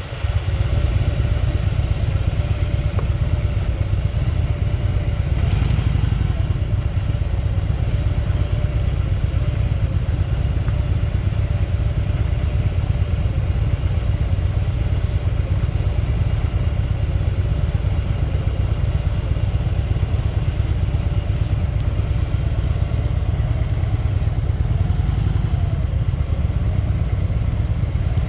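Motorcycle running steadily at cruising speed on the road, a constant low rumble.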